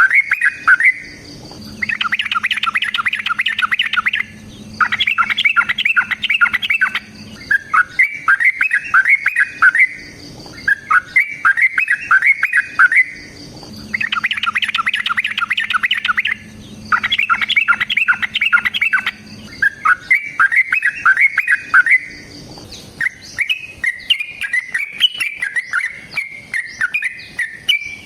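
Yellow-vented bulbul (trucukan) singing its long, rapid fighting song: repeated phrases of quick, bubbly notes, each two to three seconds long with short pauses between. Near the end the phrases run together into a more continuous, varied chatter.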